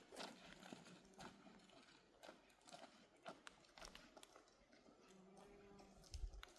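Faint, irregular clicks and knocks, with a brief low hum about five seconds in.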